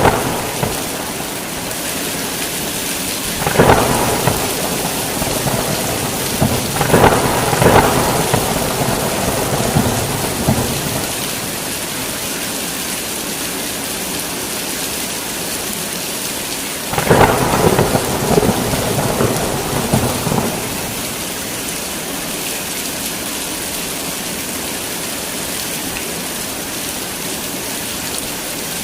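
Heavy rain pouring steadily, with thunder rolling and crackling in three bouts: a few seconds in, again a few seconds later for several seconds, and once more past the middle.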